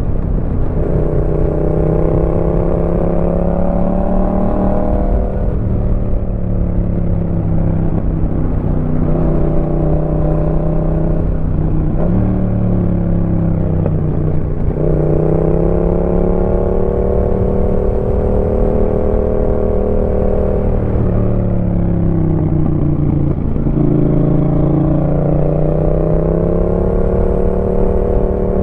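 Yamaha MT-07's 689 cc parallel-twin engine through a Roadsitalia aftermarket exhaust, under way. Its pitch climbs with the throttle and drops back again four or five times.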